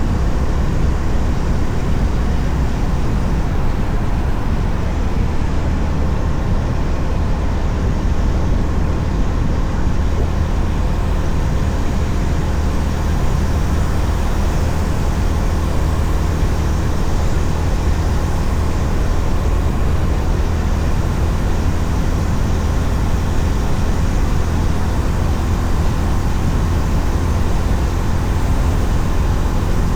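Honda CB350RS's air-cooled single-cylinder engine running steadily at cruising speed, mixed with steady wind and road rush.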